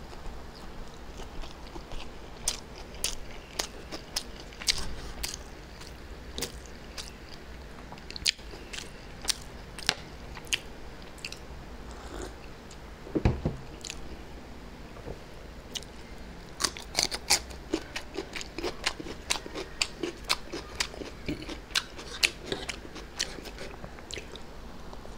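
Chewing and biting of spicy egg chow mein noodles, close to the microphone: a run of sharp, wet mouth clicks and smacks that grows denser in the second half. There is a brief low thump about halfway through.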